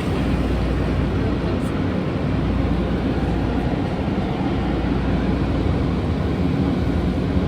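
Automatic conveyor car wash equipment heard from inside the car: a steady rushing roar with a deep low rumble that holds without a break.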